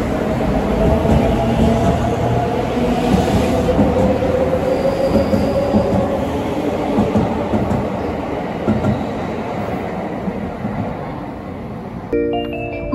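Shirasagi limited-express electric train pulling out and running past on the rails, with wheel noise and a motor tone sliding slowly down as it fades away. About twelve seconds in, a melody of short mallet-like notes starts abruptly.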